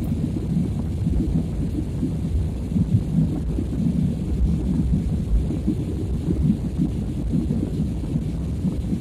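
Airliner cabin noise: a steady low rumble of the engines and airflow, wavering in strength.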